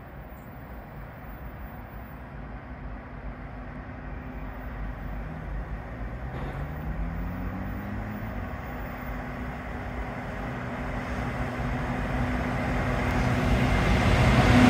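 Diesel freight train approaching along the line, growing steadily louder. Its engine note rises about halfway through, and it is loudest as it arrives near the end.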